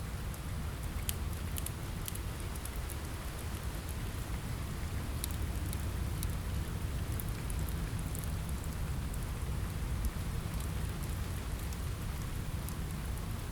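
Steady rain on a window with a low rumble underneath, mixed with irregular sharp crackles from a wood fire in a fireplace.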